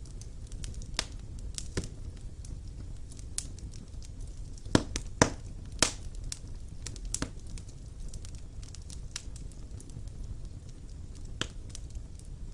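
Wood fire burning in a stone fireplace: a low steady rumble of flames with irregular crackles and sharp pops, the loudest a few close together around the middle.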